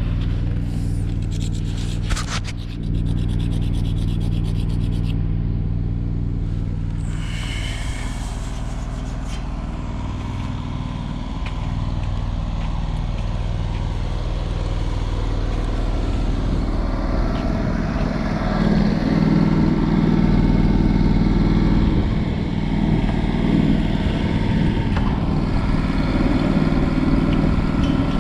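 An engine running steadily, with a quick run of clicking in the first few seconds and some scraping. It gets louder about two-thirds of the way in.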